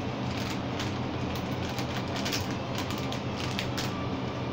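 Chewing of sour fizzy gummy candy close to the microphone: scattered soft clicks and mouth noises over a steady low hum.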